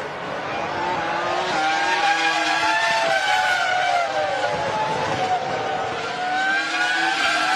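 2003-era Formula 1 3.0-litre V10 engines at high revs on track, the pitch climbing and dropping as the cars run through the gears.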